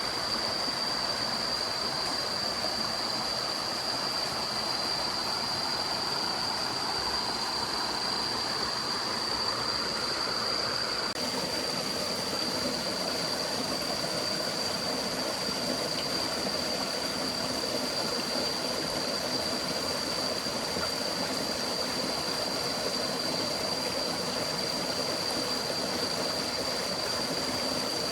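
Forest stream running with a steady rushing sound, joined by a continuous high-pitched tone; the texture shifts slightly about eleven seconds in.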